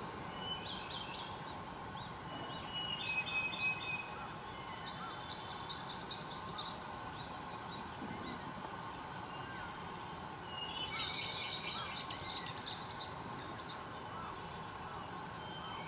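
Wild songbirds singing, with bursts of rapid repeated high notes near the start, about 5 s in and about 11 s in, over a steady hiss of outdoor background noise.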